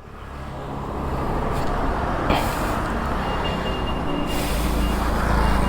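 Nitrogen tyre inflator hissing as it fills a motorcycle's rear tyre to 44. Its steady air noise swells gradually, and a faint high-pitched beeping comes in on and off from about three seconds in.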